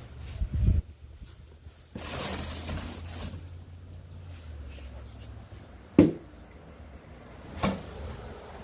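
Boxed portable fridge and its packaging being handled and pulled at: a scraping rustle about two seconds in, then two sharp knocks about a second and a half apart.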